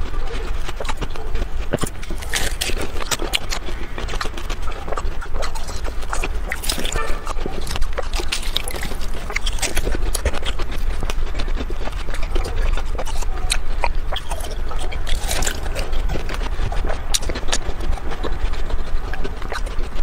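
Person biting and chewing hard ice, sped up four times, so the crunches and cracks come thick and fast without a break.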